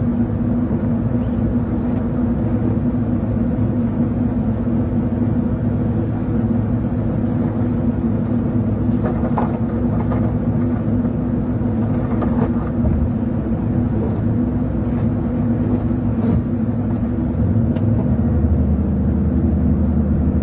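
Damaged police patrol car running and being driven after stalling and being restarted, a steady engine and road drone that shifts lower near the end.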